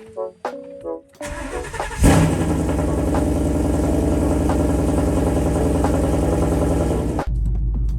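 Ford Mustang GT's 5.0 V8 cranking briefly and catching about two seconds in with a loud flare, then idling with a steady, loud exhaust. A few short tones sound in the first second, and near the end the sound switches abruptly to a deeper low rumble.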